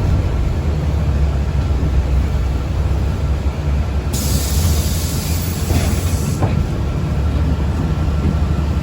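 Steady low rumble of a city transit vehicle's interior while under way, with a loud burst of hissing air about four seconds in that lasts about two seconds and stops abruptly.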